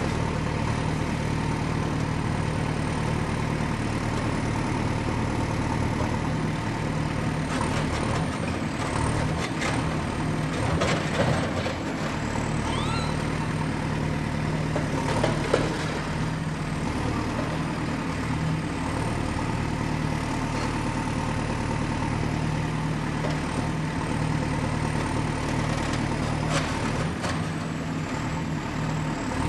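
Excavator's diesel engine running steadily with a low hum, with bursts of clanks and knocks from the machine working: a cluster from about a quarter of the way in, another about halfway, and a single knock near the end.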